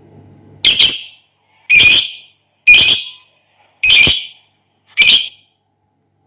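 A lovebird giving five loud, shrill squawks, evenly spaced about one a second.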